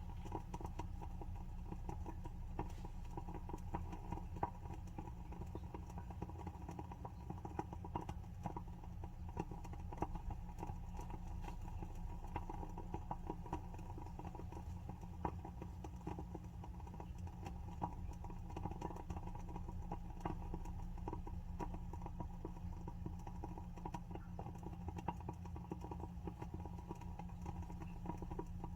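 WoodWick candle's wooden wick burning with a fast, irregular crackle of small pops, over a steady low hum.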